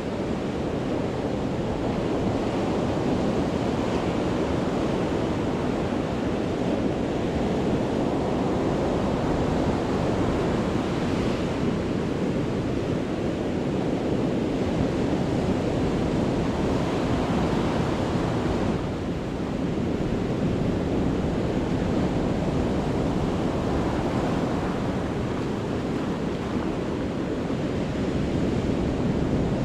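Sea waves breaking on the shore in a continuous rush of surf that swells and eases every several seconds, with wind on the microphone.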